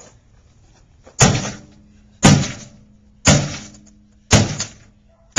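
A microwave oven being smashed: five heavy blows at a steady pace of about one a second, each with a short ringing tail.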